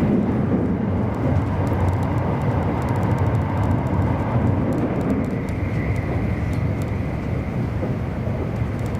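Steady running noise of an E259 series Narita Express electric train heard from inside the car: a low rumble of wheels on rail with faint ticking. A thin steady whine comes in about halfway through.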